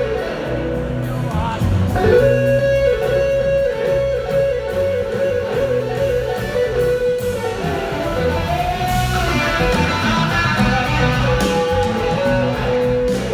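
Live blues-rock band playing an instrumental passage, led by an electric guitar holding long notes that slide between pitches over bass and drums.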